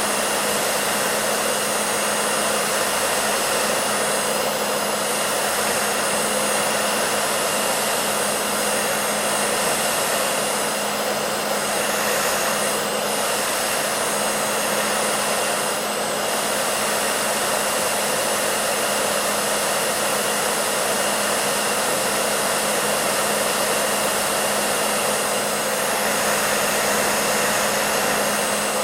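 Hair dryer running steadily: an even rushing blow of air with a constant low motor hum beneath it.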